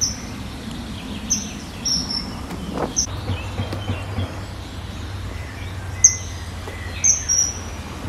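Small birds chirping: short, sharp, high chirps every second or two, some in quick pairs, over a steady low rumble.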